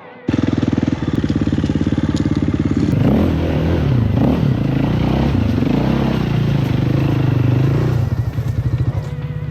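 Four-stroke enduro dirt bike engine idling, then revved up and down several times for about five seconds before settling back to idle.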